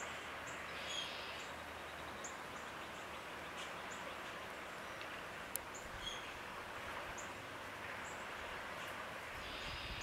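Small birds giving short, high chirps every second or so over a steady outdoor hiss; a low rumble comes in near the end.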